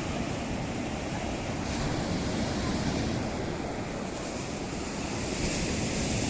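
Sea surf: waves breaking and washing up the shore, two washes swelling about two seconds in and again near the end, over a low wind rumble.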